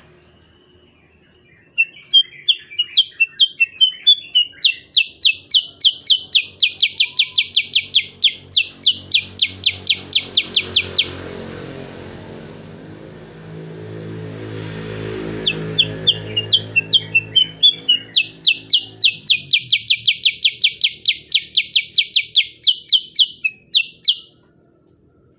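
Cucak kurincang, a bulbul, singing two long bouts of rapid, evenly repeated high notes at about four a second, with a pause between them. A low rumble fills the pause.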